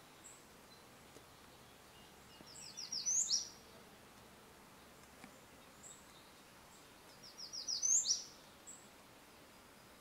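A songbird sings twice, each song a quick run of high notes that speeds up and ends in a sharp rising note, with a few short high chips in between, over a faint steady hiss of open air.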